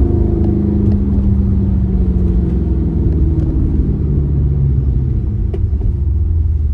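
Car engine and exhaust during a drive, with a deep, steady rumble; the engine note slowly drops as the revs come down.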